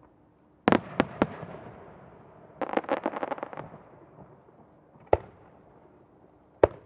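Aerial firework shells bursting: three sharp booms in quick succession about a second in, with a rolling echo after them, then a rapid run of a dozen or so crackling reports, then two single bangs near the end.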